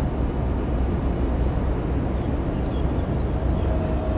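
Steady low rumbling noise outdoors on a cruise ship's deck in port, with a faint steady tone coming in near the end.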